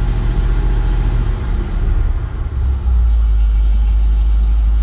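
1970 International 1300 truck's engine idling soon after a cold start. The low rumble wavers at first, then about three seconds in turns steady and a little louder.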